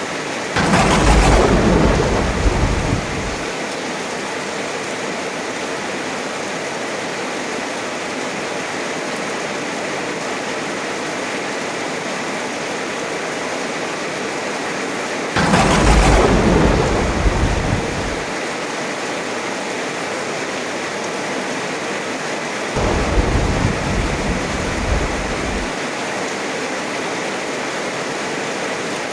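Steady heavy rain with thunder: two sharp claps, one right at the start and one about halfway through, each rumbling away over about three seconds, and a lower rumble without the crack about three-quarters of the way in.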